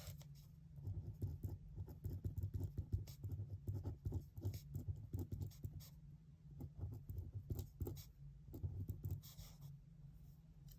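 Handwriting on paper: quick scratchy strokes of a writing tool, in dense runs with a brief pause in the middle, over a steady low room hum.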